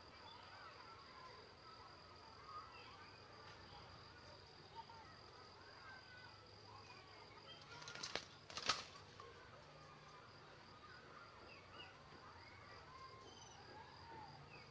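Faint forest ambience: many small bird chirps and a steady high insect whine that stops about halfway through. Just after that, a short, louder burst of rustling noise.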